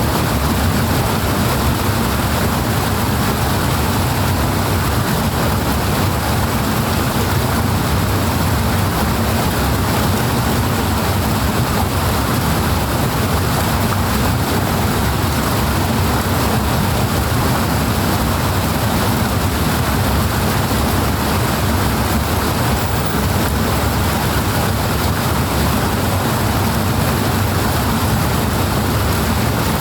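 Fast-flowing water rushing steadily and loudly, an even, unbroken wash of noise with no splashes or breaks standing out.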